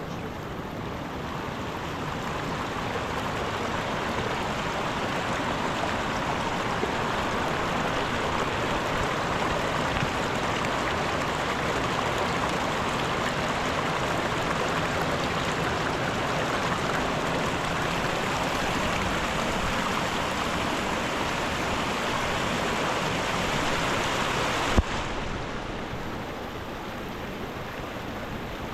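Mountain river water rushing steadily. A single sharp click comes near the end, after which the rushing is quieter.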